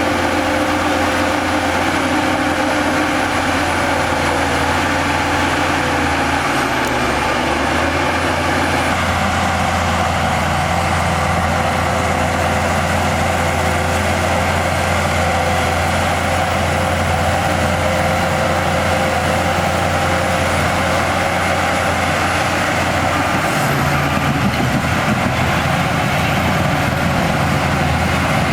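Heavy diesel engine of earthmoving machinery running steadily, a continuous low drone that shifts slightly about six seconds in and again near the end.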